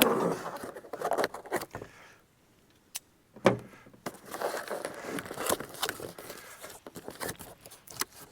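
Cardboard box being opened and its contents handled: scattered rustling, scraping and clicks, with a sharp knock about three and a half seconds in.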